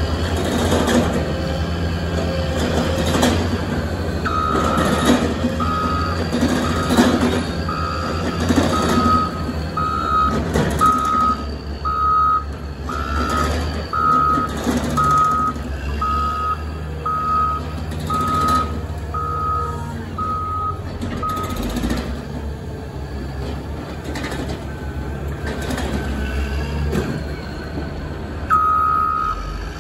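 Caterpillar 120M motor grader's diesel engine running steadily while its reversing alarm beeps about once a second, starting a few seconds in, stopping about two-thirds of the way through and starting again near the end.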